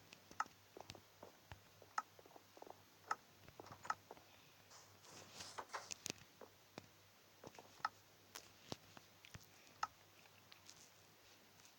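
Faint, irregular small clicks and light taps, a few with a short ringing ping, over a low steady hum.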